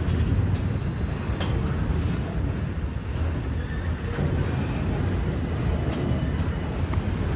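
Freight train of enclosed autorack cars rolling past: a steady low rumble of steel wheels on the rails, with a few faint clicks.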